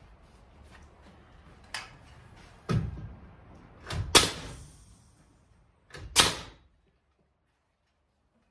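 Four or five sharp knocks spread over about five seconds, the loudest a quick pair about four seconds in, from woodworking on the barn.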